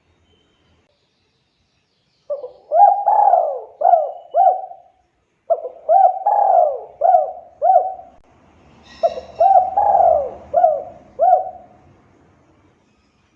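Spotted dove (tekukur) cooing: three bouts of several quick, bending coos each, a few seconds apart.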